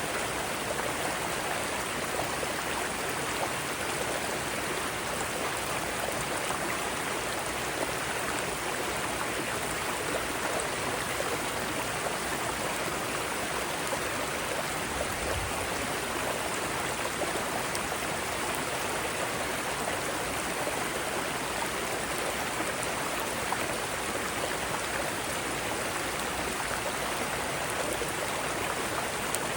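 Mountain stream cascading over rocks: a steady, even rush of flowing water.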